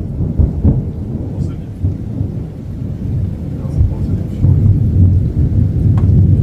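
Thunder rumbling: a long, low, rolling rumble that swells again about four and a half seconds in.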